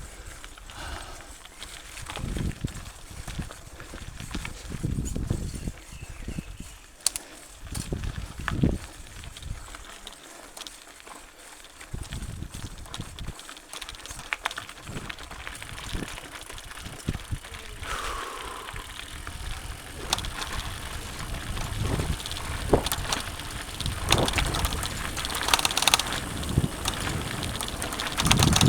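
Mountain bike being ridden over a rough dirt trail: tyres running over the ground with irregular clicks, knocks and rattles from the bike over bumps. It grows louder toward the end.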